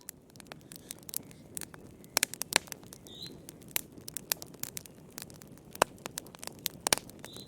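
Wood fire crackling in a fireplace: irregular sharp pops and snaps of varying loudness over the low, steady rush of the flames. A faint short high chirp about three seconds in.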